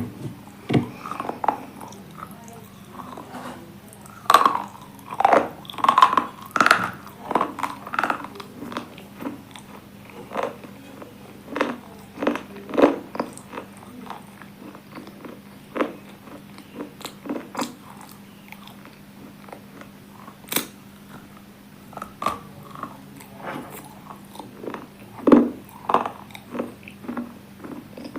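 A person biting and chewing hard, brittle pieces, with repeated sharp, irregular crunches and cracks close to the microphone. A faint steady hum runs underneath.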